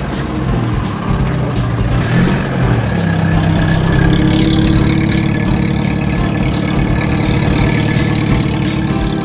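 Car engine running, mixed with background music that has a steady beat.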